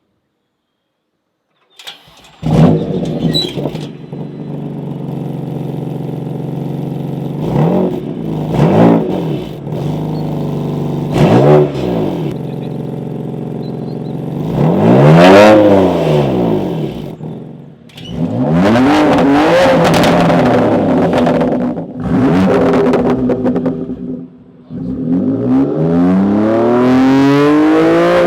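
BMW M2 Competition's twin-turbo straight-six engine through a Remus axle-back race exhaust, starting about two seconds in with a loud flare and then settling to idle. It is blipped several times, then after a brief break near the middle it is revved repeatedly, the pitch rising and falling with each rev.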